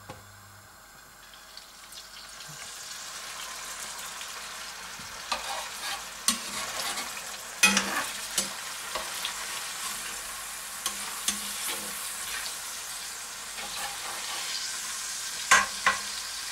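Nutria liver and offal frying in olive oil in a cast-iron pan over moderate heat: a gentle sizzle that builds over the first few seconds and then holds steady. Several sharp clicks of a metal fork striking the pan as the pieces are laid in and turned.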